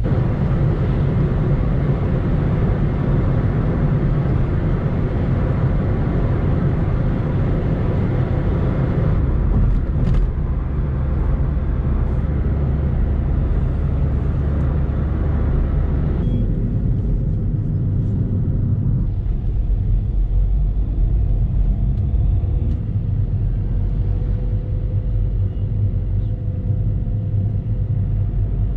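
Volkswagen Polo diesel on the move: a steady low rumble of engine and road noise. A brighter hiss above it drops away abruptly about halfway through.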